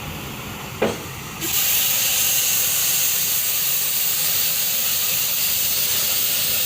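A single click, then about a second and a half in a loud steady hiss starts abruptly, like a pressurised jet rushing out, and keeps going without change.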